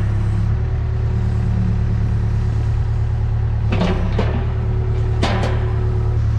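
Case 580K backhoe's diesel engine running steadily, with a few sharp knocks near the middle and latter part.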